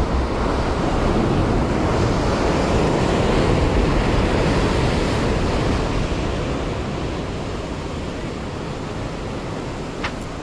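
Sea surf breaking against a concrete tetrapod breakwater, a noisy wash that swells over the first few seconds and slowly fades, with wind buffeting the microphone. A short click sounds near the end.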